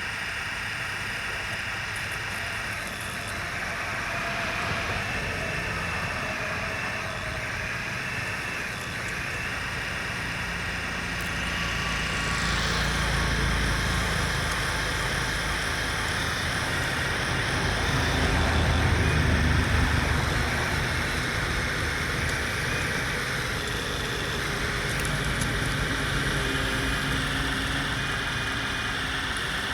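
Electric motors and gearboxes of remote-control construction models running, a steady whine that shifts slightly in pitch, with a low rumble swelling twice, near the middle and about two-thirds of the way through.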